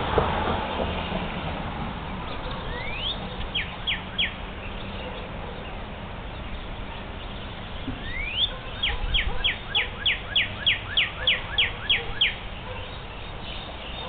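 A songbird singing two phrases, each opening with a rising whistle: the first followed by three quick down-slurred notes, the second by a run of about a dozen down-slurred notes at roughly three a second. Steady low background noise throughout, with a brief rush of noise at the very start.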